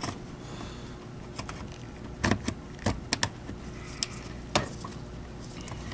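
Plastic parts of a TriStar MG2 vacuum power head being handled and fitted together by hand: a series of separate clicks and knocks, the loudest about halfway through.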